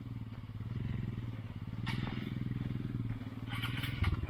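Motorcycle engine running steadily, with a few short clicks partway through and near the end.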